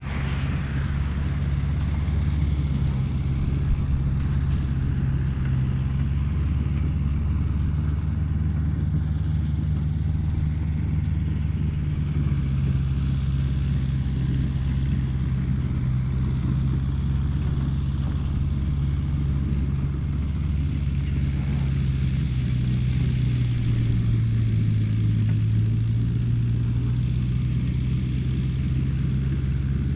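Tractor engine running steadily, a deep drone with a slight shift in pitch about twelve seconds in and again about twenty-three seconds in. A thin high whine runs along with it.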